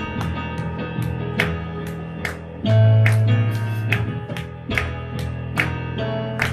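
Instrumental worship music with no singing, with regular drum strikes and a loud low bass note coming in a little under three seconds in.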